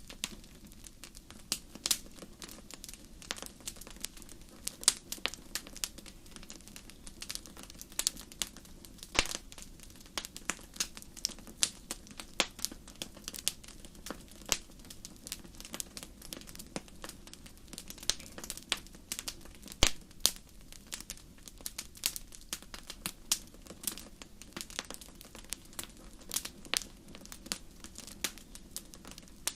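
Wood fire crackling in a fireplace: irregular sharp pops and snaps, several a second, over a soft steady low rush.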